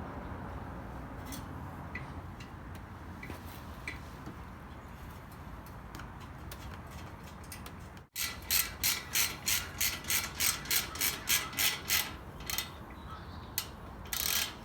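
Socket ratchet clicking in quick, even strokes, about three a second, as the single 13 mm clamp bolt on an exhaust tip is snugged up. Before that, about eight seconds in, there is only faint background with a few light clicks.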